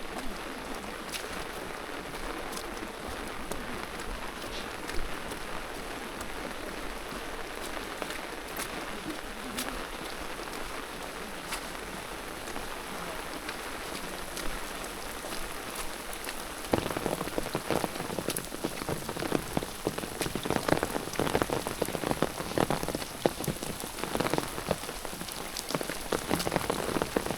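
Rain falling, with individual drops ticking through a steady patter. About two-thirds of the way in it becomes louder and fuller.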